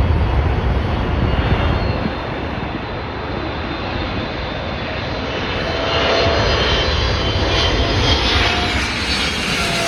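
Boeing 777 freighter's twin GE90 turbofan jet engines as the plane passes: a dense jet rumble and roar, with a whining tone that comes in about six seconds in as the noise swells, then sinks slightly in pitch near the end.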